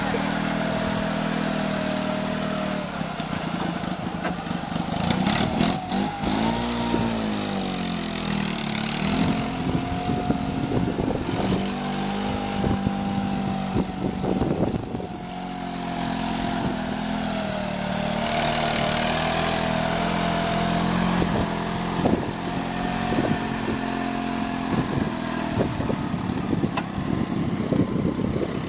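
Homemade mini tractor's UD-25G engine running, its speed rising briefly about six seconds in and wavering a little later, with repeated knocks and clatters over the engine noise.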